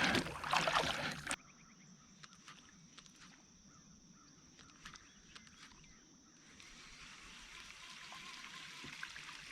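Water splashing and sloshing beside a kayak for about a second, then stopping abruptly. A quiet stretch follows, with a few faint clicks and knocks and a steady, faint high tone.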